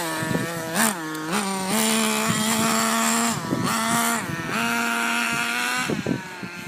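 Nitro RC truck's small glow-fuel two-stroke engine running just after being pull-started, a high steady buzz whose pitch dips and recovers a few times. It drops away about six seconds in.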